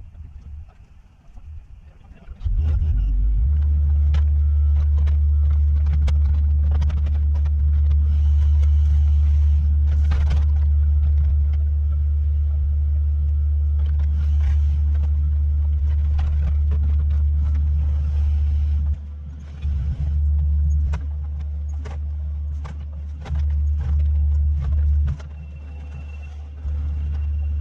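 Mini excavator's diesel engine running loud and steady under load, with scattered clanks and knocks from the machine working. About two-thirds of the way through its level drops and rises in several steps as the throttle or load changes.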